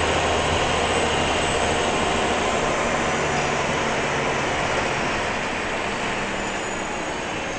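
Scania L94-UB city bus's diesel engine running, a loud, steady mechanical noise that slowly grows quieter.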